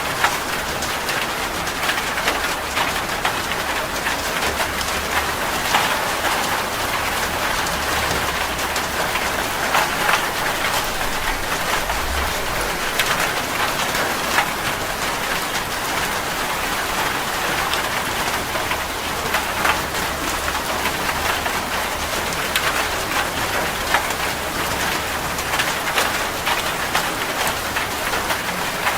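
Heavy rain drumming steadily on a metal roof, a dense hiss full of sharp individual drop ticks.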